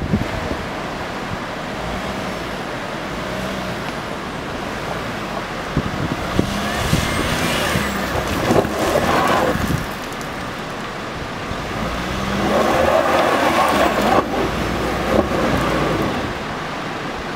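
An SUV driving, its engine and tyre noise running steadily, with two louder swells partway through and near the end.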